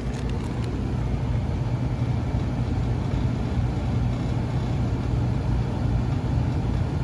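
Belt-driven indoor blower of a York rooftop air-conditioning unit running with a steady low hum, on a freshly fitted belt.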